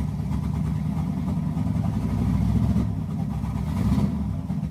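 Carbureted small-block Chevy 350 V8 running just after a cold start, its sound swelling briefly twice, about two and four seconds in.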